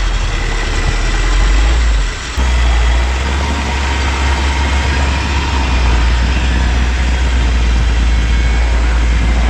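A motor vehicle engine running steadily with a deep low rumble, briefly dropping away for a moment about two seconds in.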